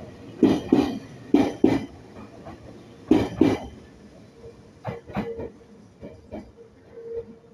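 Meitetsu 1800 series train's wheels clacking over rail joints in double clacks, one pair per bogie, five pairs that space out further and further apart as the train slows. A steady hum comes in about halfway through.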